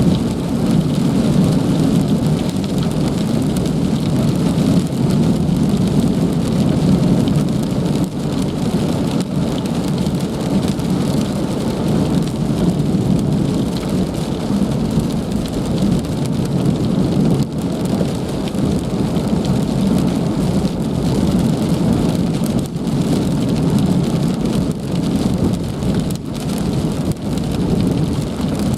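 Heavy rain falling steadily in an even, dense hiss.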